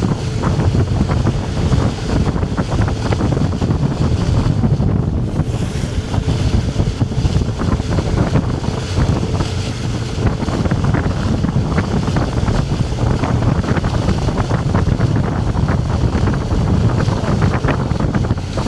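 Heavy wind buffeting the microphone on a whale-watching boat, with the rush of water and the boat underneath.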